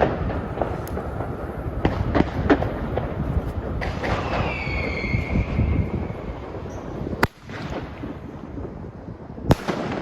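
Weco sky shots, small whistling stick rockets, going off among scattered crackling fireworks bangs. About four seconds in, a whistle dips slightly and holds for about two seconds. Near the end there is a loud sharp bang.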